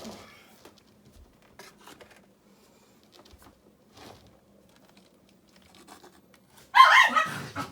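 Scattered faint scrapes and taps of river rock and mortar being worked by hand, then one louder scrape lasting about a second near the end.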